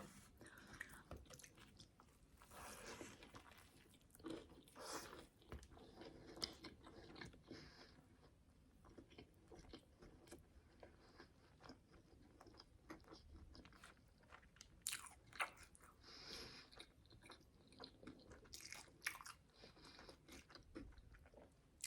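Faint close-miked chewing of a crispy fried chicken fillet between donuts, with soft crunches and wet mouth sounds coming in short scattered bursts.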